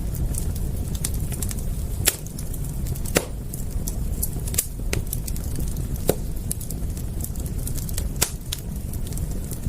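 Wood fire crackling: a steady low rumble with frequent small snaps and several louder sharp pops.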